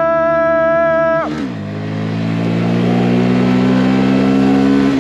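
Mini bike engine running at high revs, holding a steady pitch, then dropping sharply in revs a little over a second in and climbing slowly and steadily again under acceleration.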